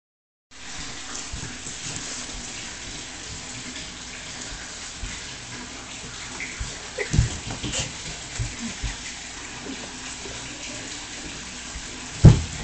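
Water running steadily, like a tap left on, with a few low knocks and bumps, the loudest just after twelve seconds in.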